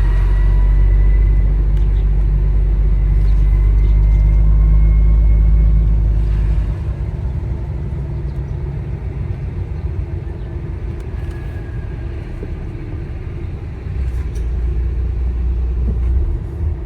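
Truck's diesel engine and drivetrain running, heard inside the cab while driving slowly. The deep rumble drops away about six seconds in and comes back strongly near the end.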